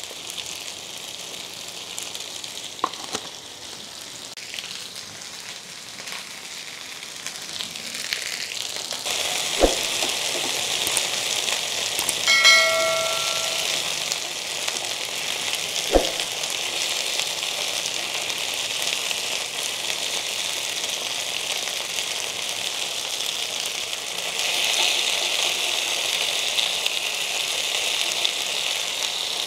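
Chicken pieces sizzling steadily as they fry in hot oil in a cast iron skillet. The sizzle grows louder about a third of the way in and again near the end. Two sharp knocks are heard, and a short bell-like ding comes a little under halfway through.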